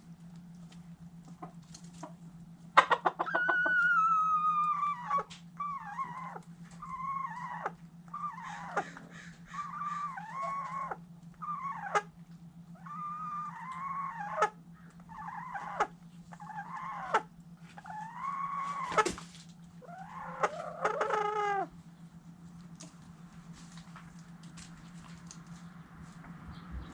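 Chickens calling: one long, drawn-out call falling in pitch about three seconds in, then a run of shorter repeated calls, roughly one a second, that stops about 22 seconds in. A steady low hum runs underneath, with scattered light clicks.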